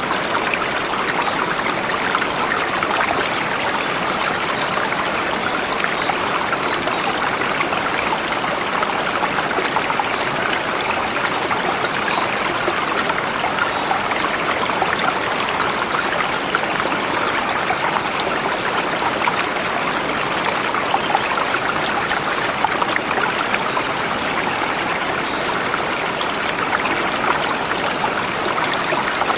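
Forest river flowing steadily over rocks.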